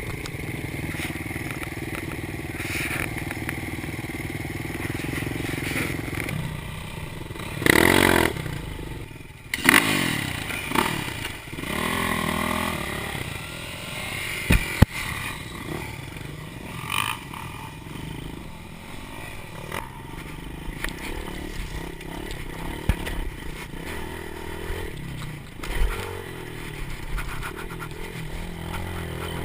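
Dirt bike engine running, revving up and down in surges, loudest about eight seconds in and again around ten to twelve seconds, with a few sharp knocks and clatter in the middle.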